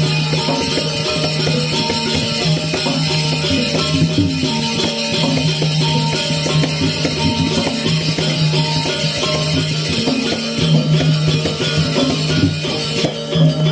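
Balinese gamelan playing steadily: ringing pitched notes over a dense, shimmering jangle of percussion.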